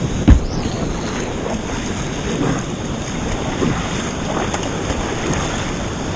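Rushing creek water with wind buffeting the microphone during whitewater kayaking, with a sharp thump about a third of a second in.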